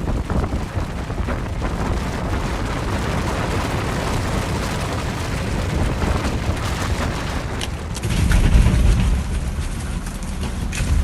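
Avalanche of snow rushing down with a deep, steady, noisy rumble. The rumble swells heavier about eight seconds in.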